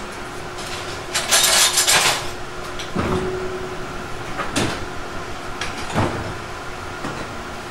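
Tobu 50050-series electric train heard from inside the car, running with a steady hum and air conditioning. About a second in comes a short loud hiss, followed by four separate clunks, typical of the wheels crossing rail joints or points.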